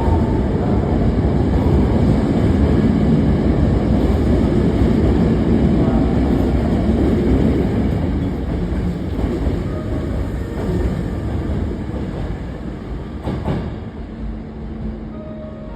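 Hankyu 5300 series electric commuter train pulling away from a station, a low rumble of wheels and traction motors. It is loudest for the first several seconds, then fades gradually as the train draws away.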